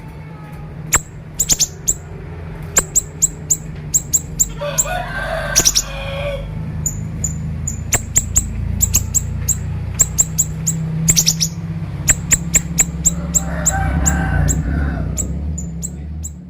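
Siri-siri bird singing a sharp, high, rapid run of short chips and falling notes in irregular bursts, the fast chattering 'konslet' style used as a tutor song. A rooster crows twice in the background over a steady low hum.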